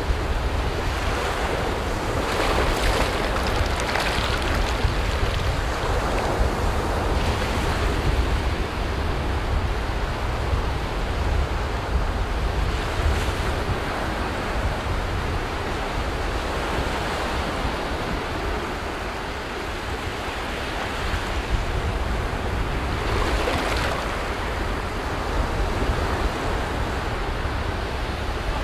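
Ocean surf: waves breaking and washing up a beach as a continuous rushing wash over a deep rumble, swelling louder each time a wave breaks.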